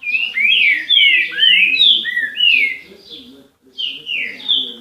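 A songbird singing a loud phrase of quick whistled notes that slide, mostly downward, for about three seconds, then a short pause and a few more whistled notes near the end.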